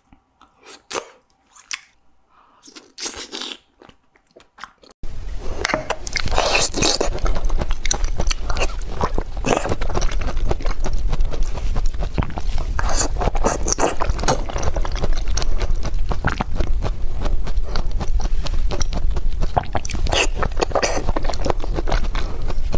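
Close-up chewing and crunching of food. For the first few seconds it is quiet, with scattered soft mouth clicks; about five seconds in it turns suddenly much louder and denser, over a steady low rumble.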